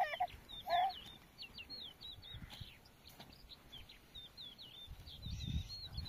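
Birds calling: a run of short, high chirps repeated throughout, with two louder, lower calls in the first second. A low rumble comes in near the end.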